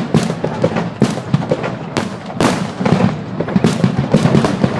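Water starmine fireworks display: shells bursting in a rapid barrage, bangs following one another two or three times a second with crackling and echo between them.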